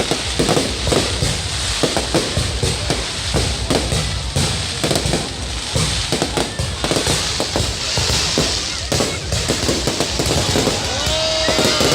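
Fireworks display: a rapid, continuous barrage of bangs and crackling from bursting shells, many per second.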